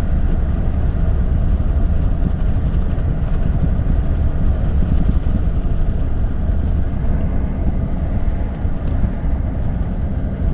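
Steady low rumble heard from inside a car with its window open.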